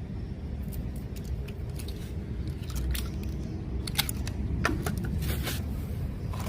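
Scattered light clicks and small clatters of hard objects being handled, thickest about four to five and a half seconds in, over a steady low rumble.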